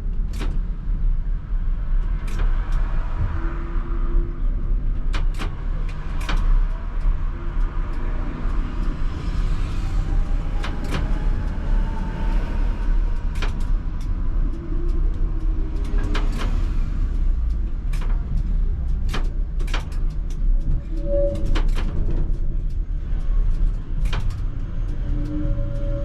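ČKD Tatra T3R tram running on rails: a steady low rumble of wheels on track with irregular sharp clicks and knocks, likely over rail joints, and short whining tones now and then, with a faint rising whine about ten seconds in.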